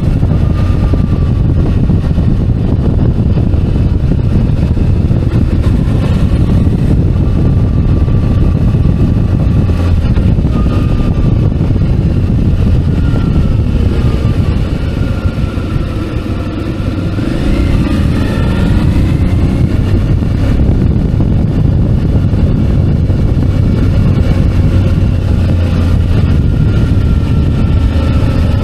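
Suzuki DL650 V-Strom's 645 cc V-twin engine running under way, its pitch rising and falling with the throttle; it eases off about halfway, then the revs climb again.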